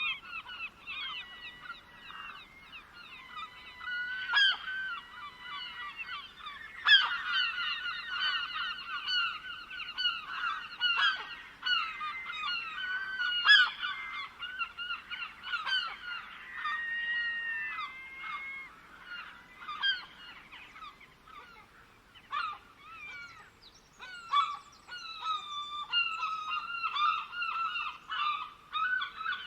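A flock of birds calling at once, with many overlapping, repeated calls. Sharper, higher chirps join in near the end.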